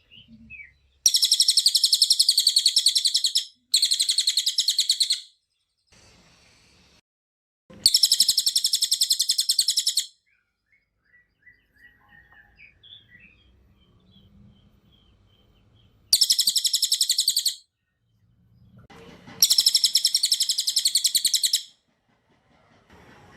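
Cililin, an Indonesian songbird, singing in loud bursts of rapid, tightly packed high notes. There are five bursts, each lasting two seconds or so, with faint softer chirps in the gaps.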